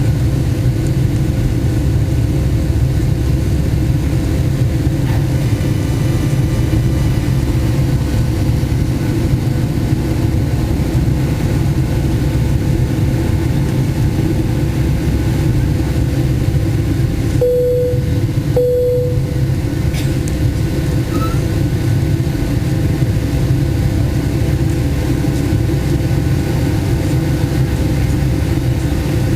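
Steady low rumble of engine and airflow noise heard inside the cabin of a Boeing 757-200 climbing after takeoff. About eighteen seconds in, two short chime tones of the same pitch sound in quick succession.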